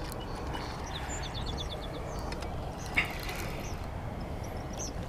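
Birds chirping over a steady low background rumble, with one sharp click about three seconds in.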